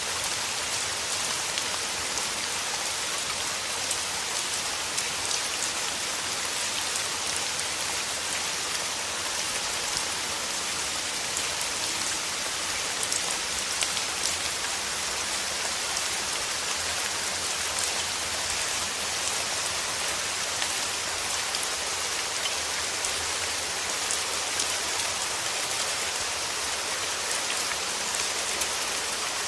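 Steady rain: an even hiss of falling drops with small drop ticks scattered through it, holding the same level throughout.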